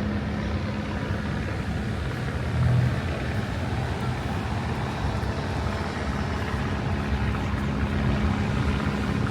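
A motor vehicle engine running steadily, a low hum that comes and goes and swells briefly about three seconds in, over a steady wash of outdoor noise.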